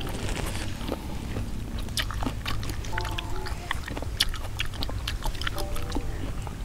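People eating by hand and chewing, with scattered small sharp clicks and crunches over a steady low rumble.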